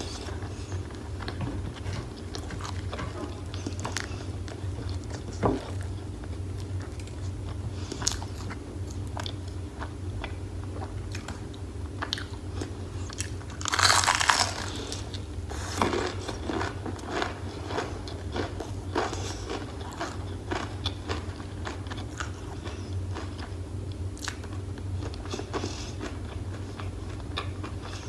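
Eating sounds: steady chewing with small crunches and clicks, then about halfway through a loud crunching bite into a crispy breaded fried chicken drumstick.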